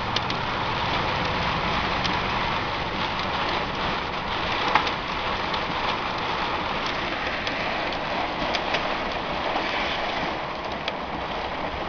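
Heavy rain on a moving car's windshield and roof, heard from inside the car: a steady hiss scattered with sharp drop hits, one louder hit about five seconds in, over a low road rumble.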